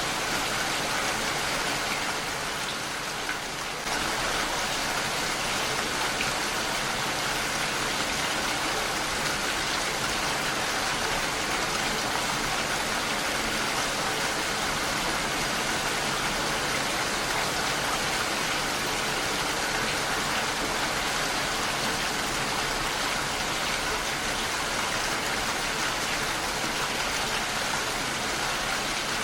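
Heavy rain falling on a window, a steady dense hiss of drops that eases slightly a few seconds in and then comes back up.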